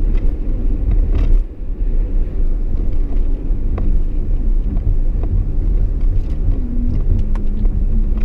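Steady low rumble of road and engine noise inside a moving truck's cab, with a few light ticks and knocks.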